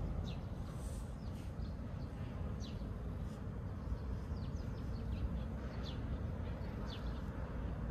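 Small birds chirping in short, falling chirps, about two a second, over a steady low rumble.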